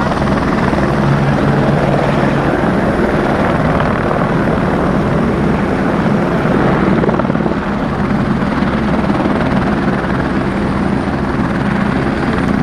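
Helicopter running close by, a steady loud drone with the rapid chop of its rotor blades.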